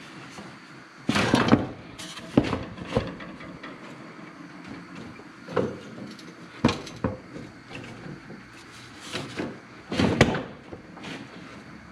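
Irregular metallic clanks, knocks and short scrapes of hand tools and parts during transmission removal on a truck, about ten separate hits, the loudest a cluster near the start and another near the end.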